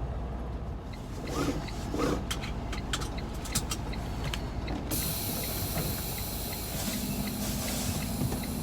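Scattered sharp clicks and knocks, as of things being handled inside a truck cab. About halfway through, the background changes abruptly to a steady hiss, and a low steady hum comes in near the end.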